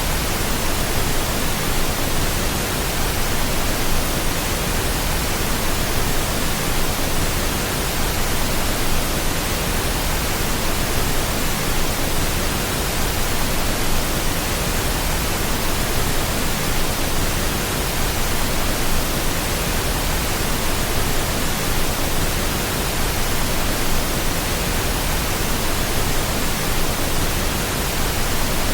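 Steady pink noise: an even, unchanging hiss spread across all pitches, with no rhythm or change.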